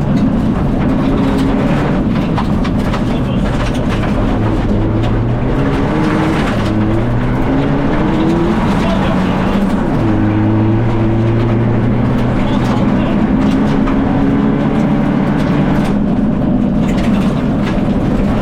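In-cabin sound of a Fiat Egea 1.4 T-Jet rally car's turbocharged four-cylinder engine driven hard. The revs rise repeatedly and drop back at each gear change.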